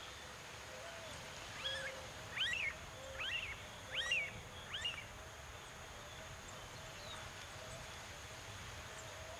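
A bird calling: five short, sharp, high calls, each falling steeply in pitch, about one every second.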